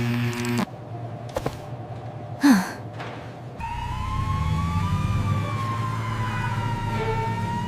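A few short sounds, including a brief falling cry about two and a half seconds in, then an emergency vehicle siren wailing, its pitch slowly rising and falling, over a low rumble.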